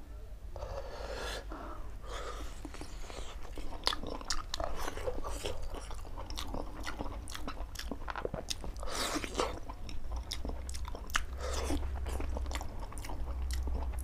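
Close-miked chewing: irregular wet smacking and clicking mouth sounds of a man eating syrup-soaked gulab jamun, over a steady low hum.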